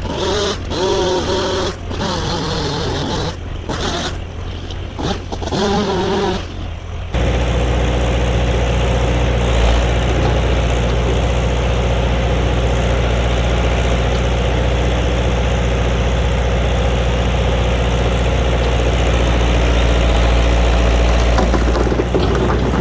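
An engine at a low rumble with voice-like sounds over it for the first seven seconds. Then, about seven seconds in, a loud, steady engine note at high throttle starts abruptly and holds.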